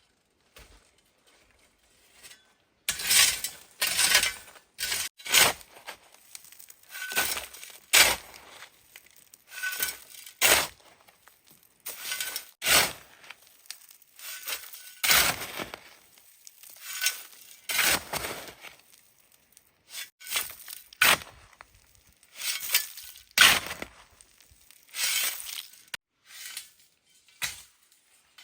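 A hand tool working a cement mix: irregular crunchy scrapes and clinks, roughly one a second, with short pauses between them.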